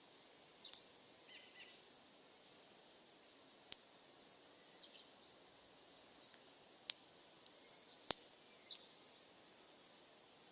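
Wood fire crackling, with four sharp, separate pops spread a few seconds apart over a faint steady hiss.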